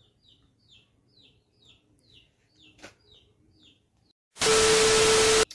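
A small bird chirping faintly over and over, about two short falling chirps a second. About four seconds in, a loud burst of hiss-like noise with a steady tone running through it lasts about a second and cuts off abruptly.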